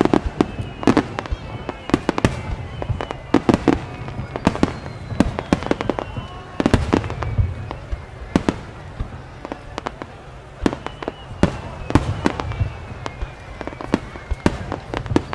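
A starmine, a rapid-fire barrage of aerial fireworks, bursting in a dense irregular run of sharp bangs and cracks, several a second, over a continuous low rumble of echoing booms.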